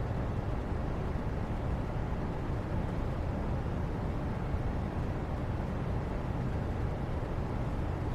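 Steady, even background noise, heaviest in the low end, with no distinct events.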